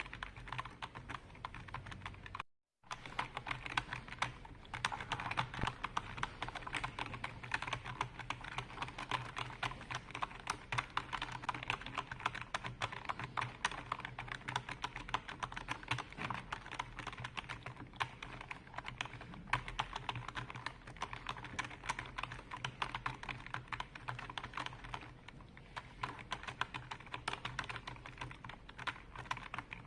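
Continuous fast typing on a computer keyboard: a dense stream of key clicks, broken by a moment of complete silence about two and a half seconds in.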